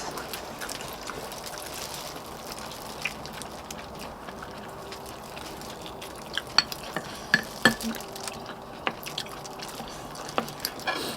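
Eating sounds at a bowl of gamjatang: a spoon working in the broth, with a few sharp clinks of spoon against bowl about six to eight seconds in.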